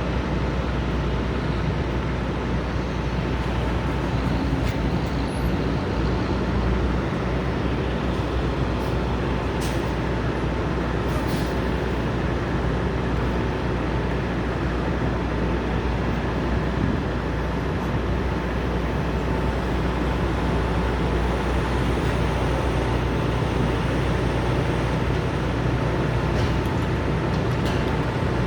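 Steady low rumble of idling diesel trucks and traffic at a truck stop, with a thin steady hum over it and a few faint clicks.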